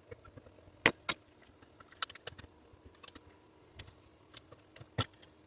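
Small metal parts clicking and clinking as they are handled and worked at by hand. The taps are scattered and uneven, with two louder clicks about a second in and near the end.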